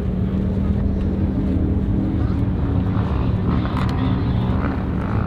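Off-road 4x4 engine running hard at a steady, held pitch, with a low rumble underneath.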